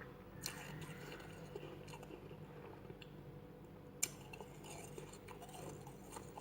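Freezer frost being bitten and chewed, with small crisp crunches and two sharper crunches, one about half a second in and a louder one about four seconds in. A faint steady hum lies underneath.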